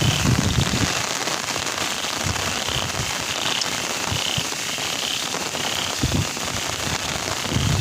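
Steady rain falling, an even hiss, with low wind buffeting on the microphone now and then.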